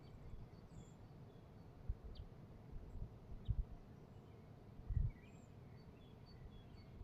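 Quiet outdoor nature ambience: scattered faint, short bird chirps over a low background hiss. A few brief low rumbles come through at about two, three and a half and five seconds in, the last one the loudest.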